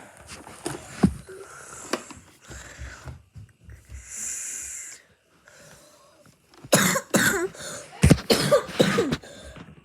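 Scattered clicks and knocks of small objects being handled, then a run of loud, repeated coughs from a person in the last few seconds.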